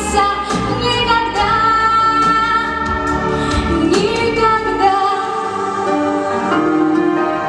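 A female vocalist singing the closing notes of a ballad, with long held notes over instrumental accompaniment.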